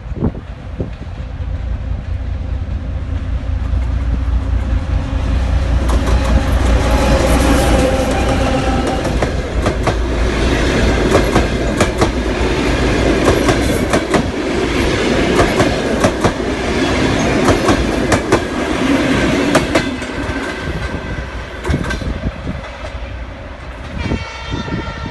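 ChME3 diesel locomotive hauling a passenger train past: a low engine rumble builds over the first several seconds, then the wheels clatter over the rail joints in many sharp clicks. The clatter eases off after about 21 seconds, and a ringing tone sounds near the end.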